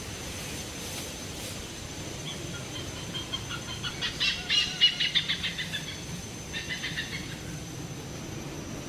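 A bird calling: a fast run of repeated high notes, about ten a second, that swells and fades over a few seconds, followed by a shorter run.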